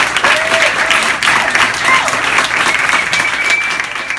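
Audience applauding, with someone whistling a long, held note near the end.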